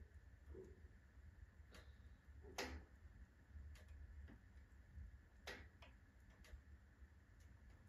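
Firewood burning in a wood stove, faintly crackling with sparse, irregular pops; the loudest pop comes about two and a half seconds in.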